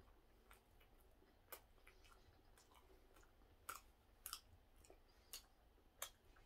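Faint chewing of a soft steamed bun (hoppang): irregular small wet mouth clicks over quiet room tone.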